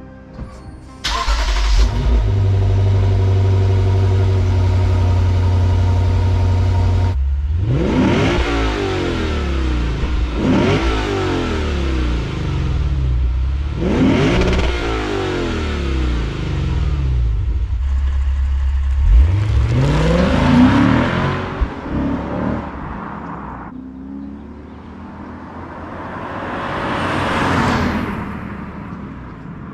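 Lexus IS 500's 5.0-litre 2UR-GSE V8 starting about a second in and idling steadily, then revved several times, each rev rising and falling in pitch. Near the end its sound swells more slowly and fades away.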